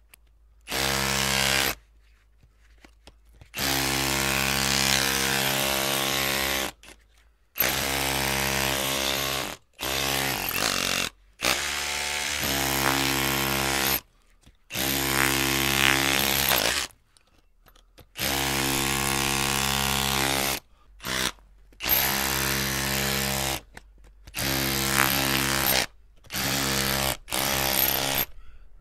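Electric drill motor running in about a dozen bursts of half a second to three seconds, at a steady pitch, stopping and starting again after short pauses.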